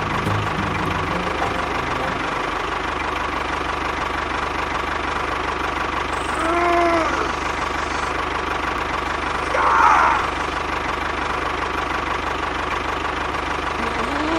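A motor running steadily at an even pace, with two brief pitched sounds partway through, the second one louder.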